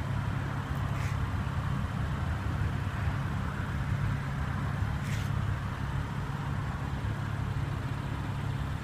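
Steady low rumble of vehicle noise, with two faint brief clicks about a second in and about five seconds in.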